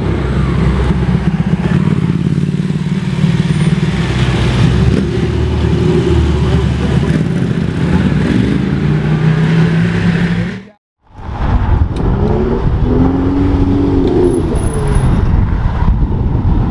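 Ferrari 488 Pista's twin-turbo V8 running and revving as the car pulls away, its pitch rising and falling. After an abrupt cut to silence about eleven seconds in, a second Ferrari's engine is heard running and revving as it drives by.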